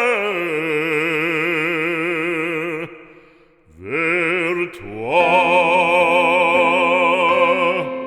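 Operatic voice singing a French sacred song, holding long notes with wide vibrato. It breaks off briefly about three seconds in, then slides up into a long held high note.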